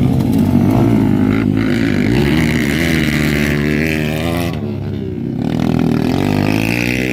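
Several dirt bike engines running together and revving, their pitches rising and falling and overlapping.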